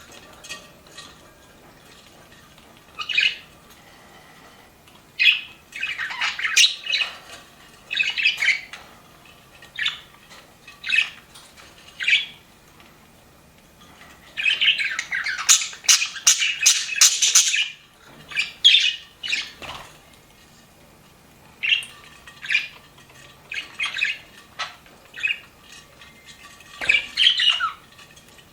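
Pet budgerigars calling in short chirpy bursts, with several seconds of dense, overlapping chatter around the middle and another flurry near the end.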